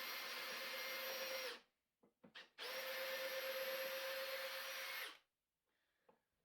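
Power drill running at a steady speed, stopping about a second and a half in, then two quick blips of the trigger, then running steadily again for about two and a half seconds before stopping.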